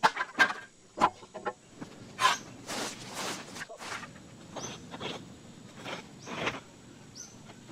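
A string of irregular scrapes and sharp knocks, some of them with short high squeaks.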